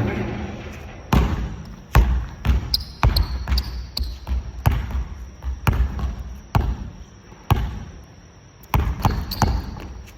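Basketballs bouncing on a gym floor: an uneven run of sharp thuds, more than a dozen in all, each trailing off with a short echo.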